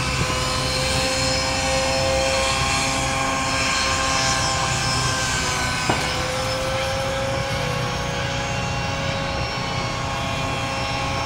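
Steady whine of radio-controlled model helicopters in flight, several held tones drifting slightly in pitch. A single short click about six seconds in.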